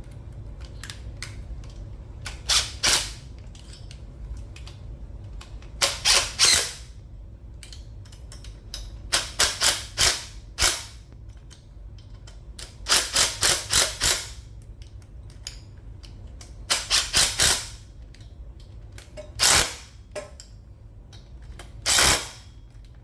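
Cordless power driver with an Allen socket running the head bolts of an air compressor in short trigger bursts: about seven loud spells of quick rattling hits, each a fraction of a second to a second and a half long, with pauses between.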